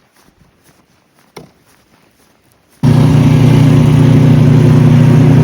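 Faint scattered clicks, then about three seconds in a loud, steady engine-like drone starts abruptly.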